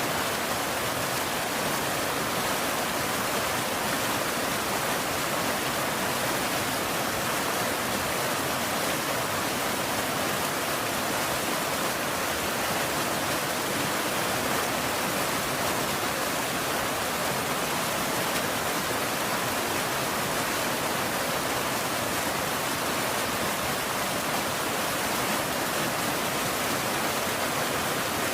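Steady rain, an even hiss with no separate drops or thunder standing out.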